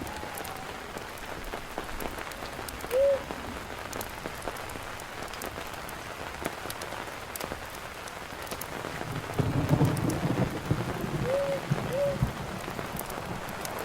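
Steady rain falling around a campfire, with scattered sharp crackles and ticks. There are a few brief squeaks, and a louder low rumble from about nine to eleven seconds in.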